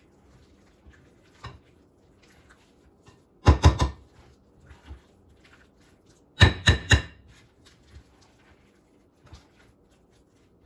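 A mixing spoon rapped against the rim of the bowl of chicken salad to knock it clean: two quick runs of sharp knocks, three and then four, about three seconds apart, with faint handling clicks between.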